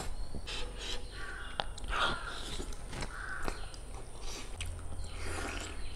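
Close-up mouth sounds of eating a chicken leg by hand: biting, wet chewing and lip smacks. Several short crow caws sound in between.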